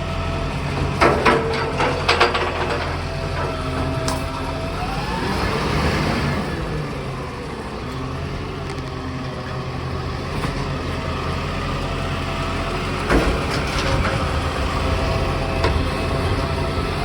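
Garbage truck engine running, with its pitch rising once as it revs about four to five seconds in. A few sharp knocks about one to two seconds in and again about thirteen seconds in.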